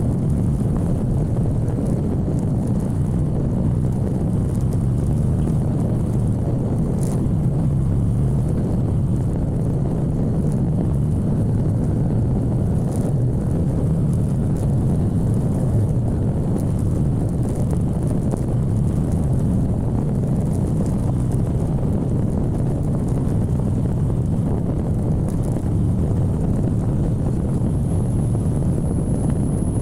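Motorcycle riding at a steady speed: the engine and wind rushing over the microphone blend into a steady low rumble.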